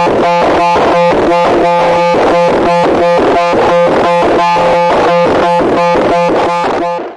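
A loud, harsh electronic tone pulsing evenly at about four pulses a second over a steady low hum.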